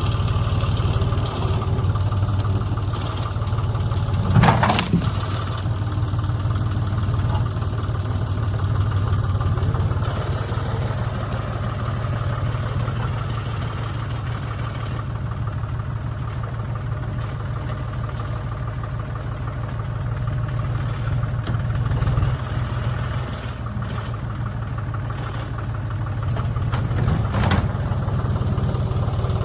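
An engine idling steadily, with two brief sharp cracks over it, one a few seconds in and one near the end.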